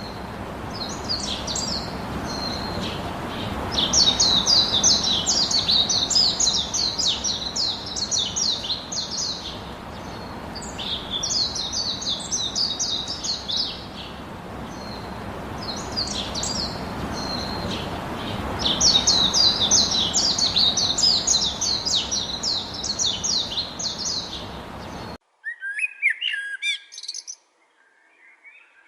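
Songbird singing in bouts of fast, chattering trilled phrases, each lasting a few seconds with short pauses between, over a steady background hiss. About 25 seconds in the hiss cuts off abruptly, and quieter, lower bird calls follow.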